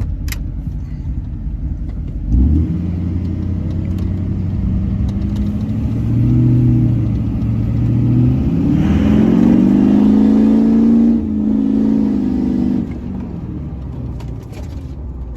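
LBZ Duramax 6.6-litre V8 turbo-diesel with a 5-inch straight-pipe exhaust, heard from inside the cab with the windows up. A low exhaust drone steps up about two seconds in. It climbs in pitch under throttle around the middle, holds, then drops back near the end. The drone is not too loud.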